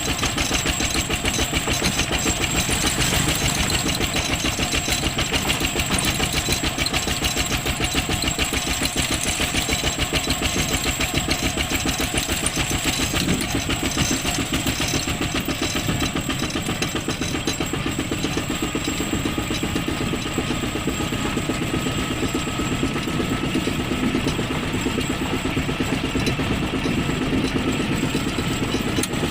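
ZT155 tractor's engine running steadily under way, with a fast, even beat.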